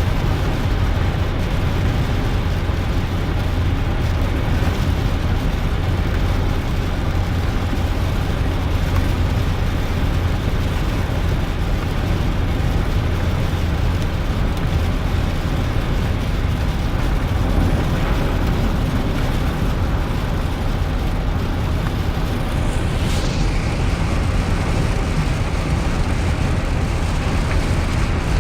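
Steady in-cab road noise from a 2001 GMC Sierra pickup driving on a wet road: a deep low rumble of engine and drivetrain with tyre hiss over it. A short falling swish sounds about 23 seconds in.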